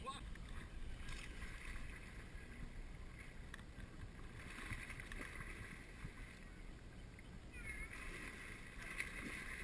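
Faint water noise around a kayak on the water, with a low rumble underneath.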